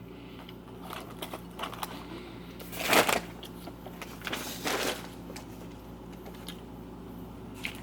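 Eating a sandwich: scattered small clicks and rustling from handling the sandwich and its paper wrapper, with two louder crinkling rustles about three and nearly five seconds in.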